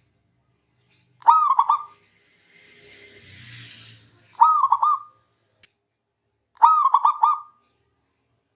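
Zebra dove (perkutut) cooing: three short phrases of quick rolling coos, a few seconds apart. A faint hiss comes between the first two phrases.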